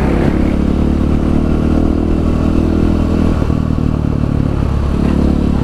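Motorcycle engine running at steady revs.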